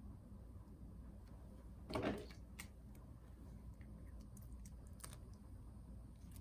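Light clicks and a brief scrape of small tools and parts being handled during hand work on a laptop's insides. The scrape about two seconds in is the loudest thing, and a few faint ticks follow.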